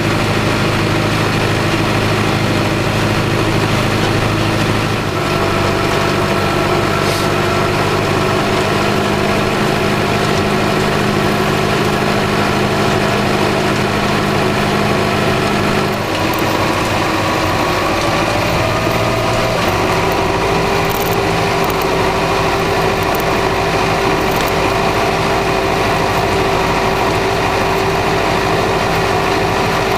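Massey Ferguson 3075 tractor's diesel engine running steadily while pulling a three-furrow reversible plough, its note shifting abruptly a few times.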